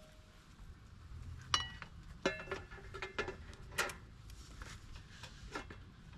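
Light metallic clinks and clatters: a handful of sharp strikes between about one and a half and four seconds in, several ringing on briefly, like metal camp gear or cookware being handled.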